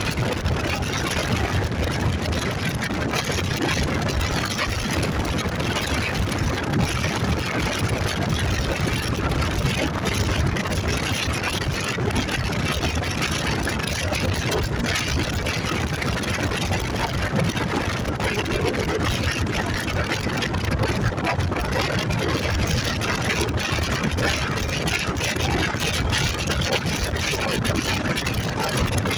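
Motorcycle running steadily on the move, a constant low engine sound under an even rushing noise that does not let up.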